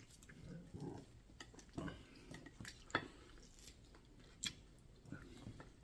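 Faint, scattered clinks of cutlery on dinner plates during a meal: a few separate taps, the sharpest about three seconds in and another about four and a half seconds in.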